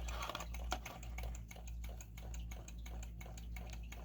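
Small hot-water Stirling engine running on a cup of boiling water, its mechanism ticking evenly at about four ticks a second.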